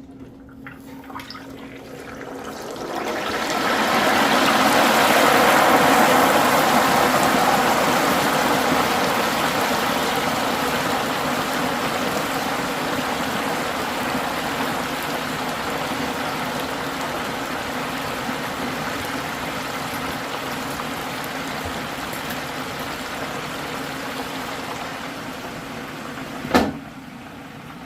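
Hot oil in a turkey fryer bubbling and sizzling hard as a whole turkey is lowered in. It builds over a few seconds to its loudest, then slowly settles to a steadier boil. A single sharp click sounds near the end.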